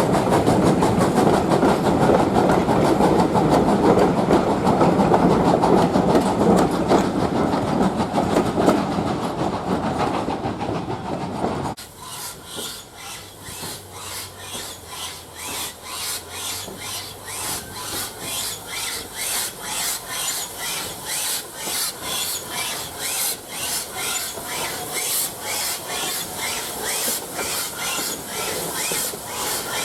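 A train on the line: a loud, dense rumble for about the first twelve seconds, then an abrupt change to a quieter, regular clatter of wheels on the rails.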